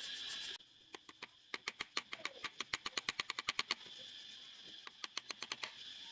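A rapid run of sharp mechanical clicks, about eight a second and speeding up slightly, over a steady high hiss that drops out just before the clicks begin and returns once they thin out.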